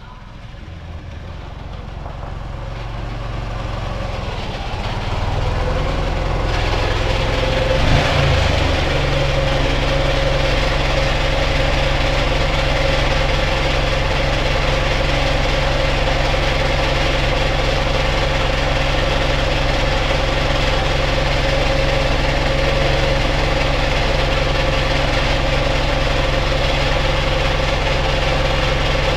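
Ural motorcycle engine running; the sound grows louder over the first few seconds, a single knock comes about eight seconds in, then it runs steadily.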